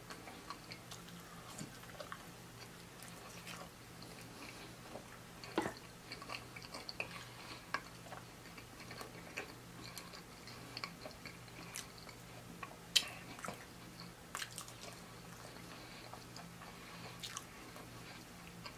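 Close-up mouth sounds of a person biting and chewing pepperoni pizza dipped in marinara: soft wet smacks and small clicks, with a few sharper clicks standing out.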